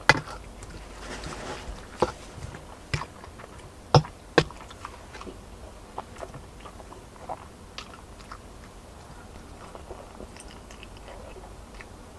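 Close-up chewing and biting sounds of a person eating fried chicken and spaghetti, with scattered sharp clicks and taps, the loudest a pair about four seconds in.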